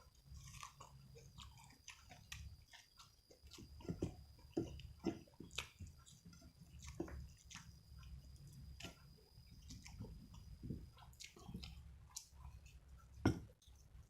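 A person chewing and biting food close to the microphone: wet chewing with irregular small clicks and crunches, the loudest a sharp snap about thirteen seconds in.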